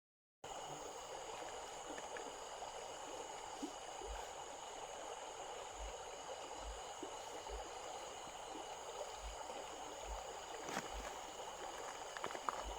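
A small stream flowing, a steady rush and gurgle of water, with faint steady high-pitched tones above it.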